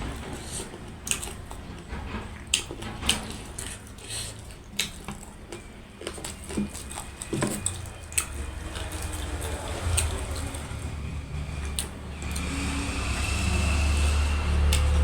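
Eating sounds: chewing with many short, sharp clicks and smacks scattered through the first half. In the second half a steady low rumble builds and grows louder towards the end.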